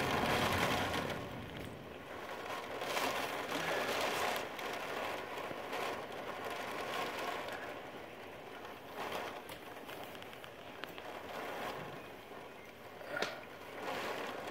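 Tropical-storm wind and rain, a steady hiss that swells and eases several times with the gusts.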